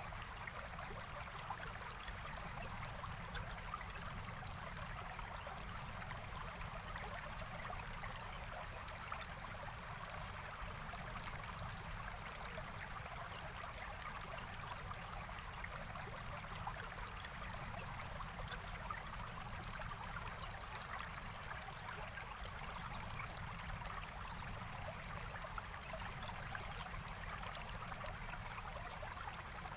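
Forest stream flowing and trickling steadily over stones. A few faint, high bird chirps come through about two-thirds of the way in and again near the end.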